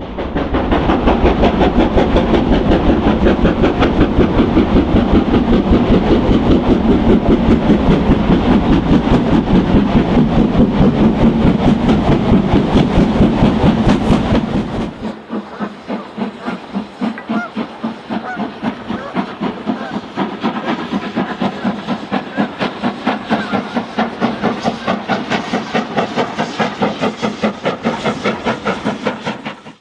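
A train running, with a fast, even beat of about four pulses a second over a noisy rush. About halfway through the deep rumble cuts out abruptly, and the beat goes on quieter and thinner.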